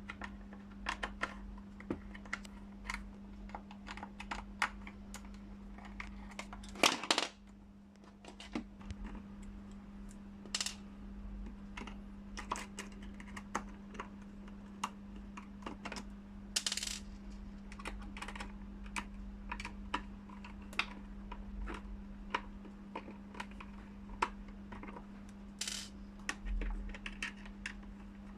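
Irregular small clicks, taps and rattles of a Phillips screwdriver working screws out of a steam iron's plastic housing and of the small parts being handled, with a louder clatter about seven seconds in. A steady low hum runs underneath.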